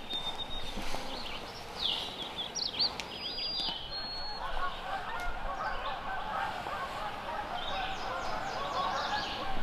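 A flock of geese honking, many short calls overlapping in a continuous chatter that builds from about four seconds in, with a few high songbird chirps earlier.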